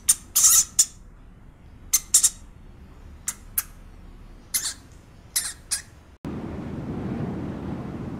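Pet rat at its food bowl making about a dozen short, sharp, high-pitched sounds in small clusters. A little over six seconds in, the sound cuts suddenly to a steady rush of wind outdoors.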